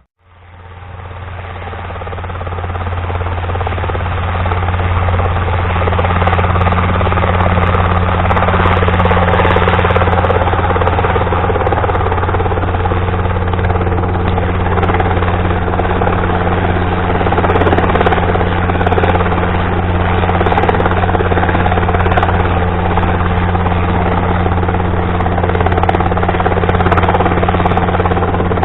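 Robinson R22 helicopter running, its rotor and piston engine making a steady low drone. The sound grows louder over the first few seconds, then holds steady.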